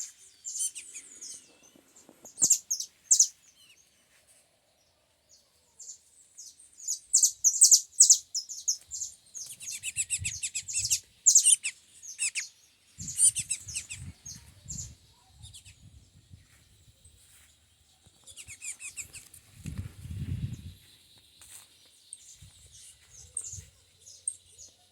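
A small songbird singing in short bursts of high chirps and quick trills, several phrases with pauses between them, and a few soft low thuds in the second half.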